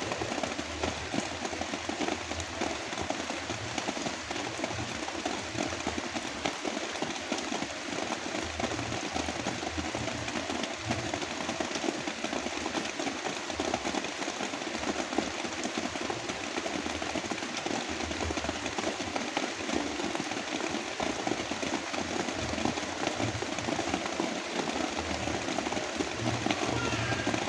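Heavy rain blended with brown noise: a steady, dense hiss with an uneven low rumble underneath.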